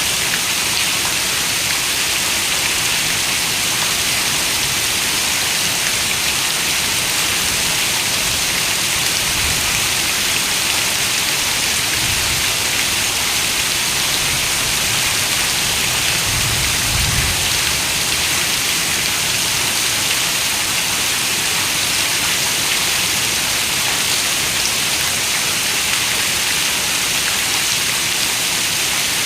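Steady rain falling, a dense even hiss with no let-up, and a faint low rumble about halfway through.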